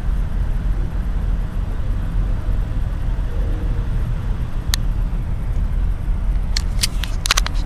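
Steady low outdoor rumble, with one short click a little under five seconds in and a few more clicks near the end.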